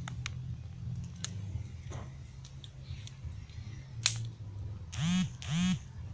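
Campfire of rotten sticks and logs crackling with scattered sharp irregular snaps, one louder crack about four seconds in. Near the end come two short rising-then-falling vocal sounds, a moment apart.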